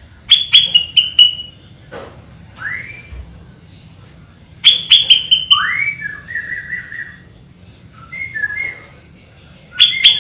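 Sooty-headed bulbul (kutilang) singing: three loud phrases of clear whistled notes, each opening with sharp clicking notes, about five seconds apart, with a single rising whistle and a few softer notes between them.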